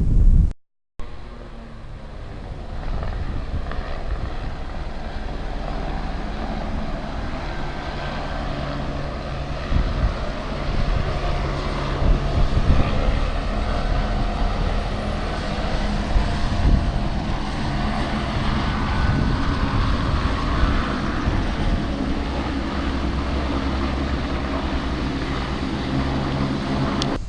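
Airplane engine noise: a steady drone with low humming tones. It cuts out briefly just under a second in, swells over the next couple of seconds and then holds.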